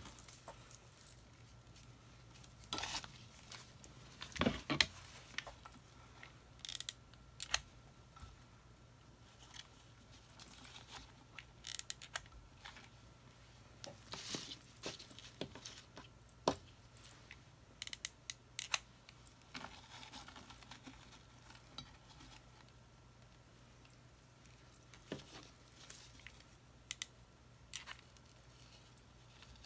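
Scattered rustling, crinkling and small clicks of hands working with craft materials, loudest a few seconds in, over a faint steady hum.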